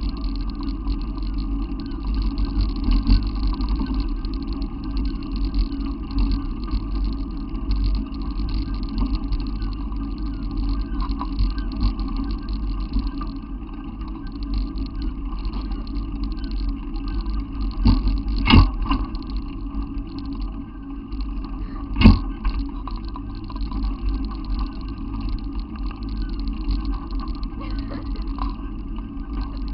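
Steady low rumble of a running vehicle, with a few sharp knocks about two-thirds of the way through.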